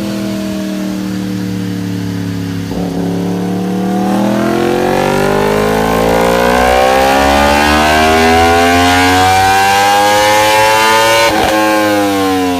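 Yamaha R1M's cross-plane-crank inline four-cylinder engine accelerating hard, its pitch climbing steadily for several seconds. Near the end there is a brief break, after which the pitch begins to fall.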